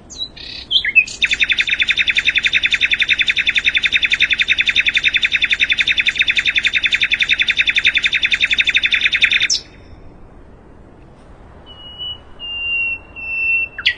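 Sikatan londo (common nightingale) singing. A few quick opening notes lead into one long, even trill of rapidly repeated notes, about five a second, lasting some eight seconds. After a pause come a few thin, high whistled notes, and a fresh trill starts at the end.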